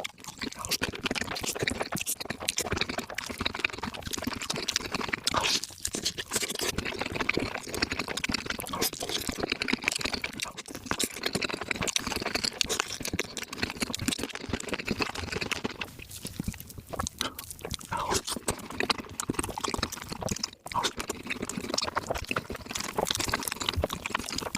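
Close-miked mukbang eating sounds: wet chewing, smacking and slurping in a dense, rapid run, sped up to three times normal speed.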